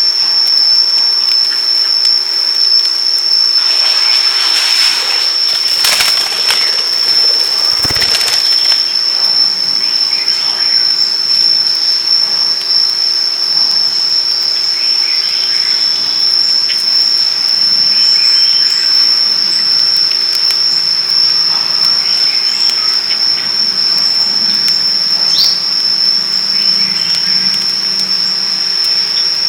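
A steady, unbroken high-pitched insect drone, one constant tone, with a few brief noisy rustles in the first third and scattered faint chirps.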